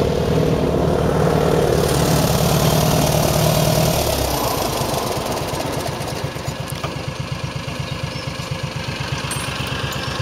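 Farmall 140 tractor's four-cylinder gasoline engine running steadily, then dropping in speed about four seconds in and settling into a lower, evenly pulsing idle.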